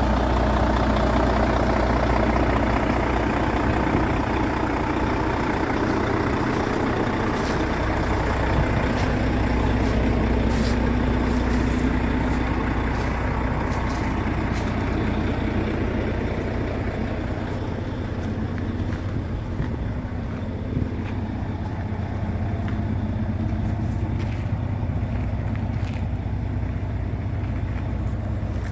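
Volvo FH 480 truck's 13-litre straight-six diesel engine running steadily.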